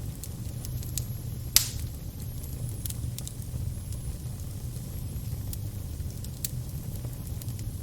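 Fire burning with a steady low rumble and scattered crackles, with one loud pop about a second and a half in.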